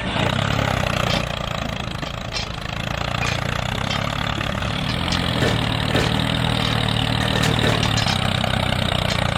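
Engine idling steadily, a low even drone, with a few faint clicks in the second half.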